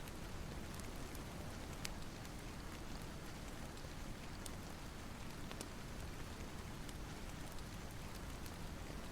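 Steady rain, an even hiss, with a few sharp ticks scattered through.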